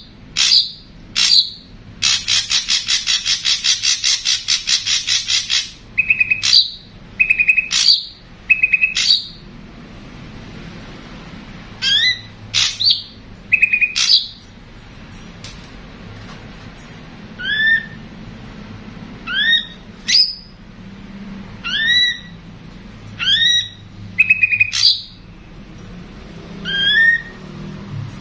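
Ashy drongos calling: a harsh rapid chatter for about four seconds, a few short repeated notes, then a run of sharp rising whistles repeated every second or two.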